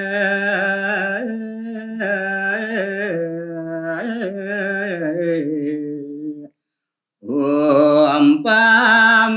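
A solo male voice sings a Balinese geguritan verse in pupuh Sinom: a slow melody on long held notes with wavering ornaments. It breaks off about six and a half seconds in, and after a short silence the singing starts again.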